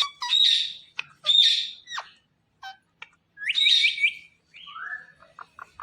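Indian ringneck parakeet calling: four loud, shrill calls in the first four seconds, then softer, shorter chatter near the end.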